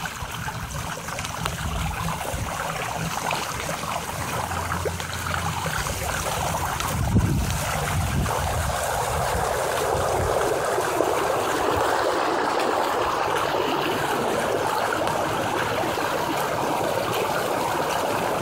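Floodwater splashing and rushing around a minibike's wheels as it rides through a flooded street. About eight seconds in, the rush of spray grows louder and fuller as the water gets deeper.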